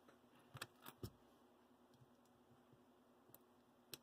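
Near silence with a few faint clicks from a small Phillips screwdriver and plastic model-locomotive parts being handled while coupler screws are taken out.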